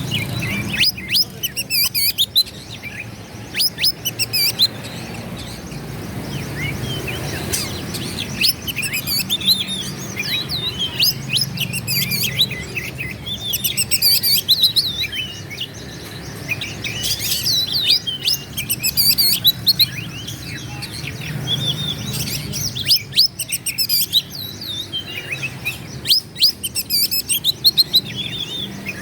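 Oriental magpie-robin singing a long, varied song of quick whistles, trills and sharp chirps, phrase after phrase with brief pauses between.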